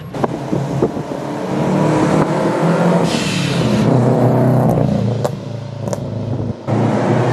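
Car engine accelerating, its pitch climbing for a few seconds, then easing off as the driver lifts, with several sharp cracks on the overrun. The source is most likely the Vortech-supercharged Subaru boxer in the GT86 with cat-less headers and a straight-through exhaust, popping and backfiring off throttle.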